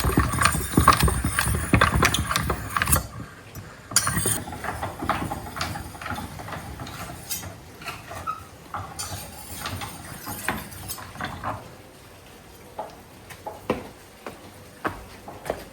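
Irregular knocking and clatter, dense and loud for about the first three seconds, then dropping off suddenly to sparser, quieter knocks.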